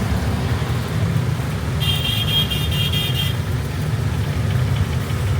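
Steady low rumble of road traffic, with a vehicle horn sounding a rapid string of short, high toots for about a second and a half near the middle.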